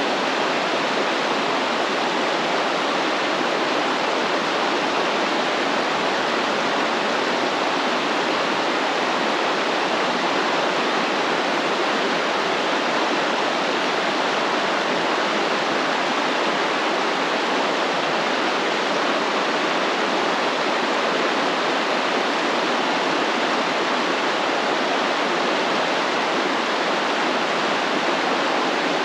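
Stream water flowing in a steady, even rush with no breaks or changes.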